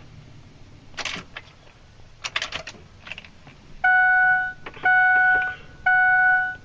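A few sharp clicks, then the pickup's dashboard warning chime sounding three times, about once a second, each a steady tone lasting most of a second, while the ignition is on and the engine is not yet started.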